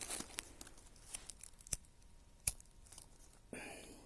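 An old sack crinkling and tearing as it is handled with dry sticks, with two sharp clicks and a short rasping tear near the end.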